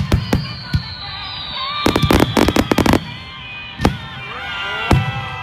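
Fireworks shells bursting in a string of sharp bangs, with a rapid salvo of reports about two seconds in lasting a second, over music played along with the show.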